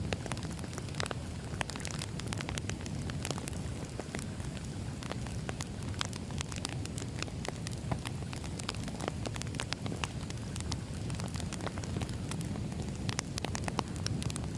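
Burning firewood crackling and popping at irregular moments over a steady low rumble of flames.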